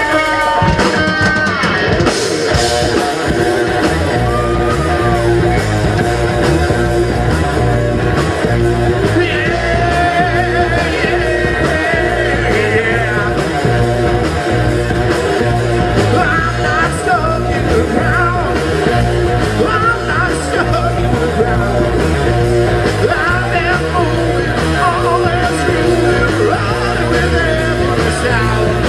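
Live rock band playing loud: guitar notes ring out, then the full band comes in with drums and bass about a second in, and singing runs over the top.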